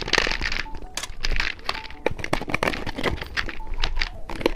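Crinkling and crackling of plastic candy packaging being handled and opened, with many quick irregular crackles.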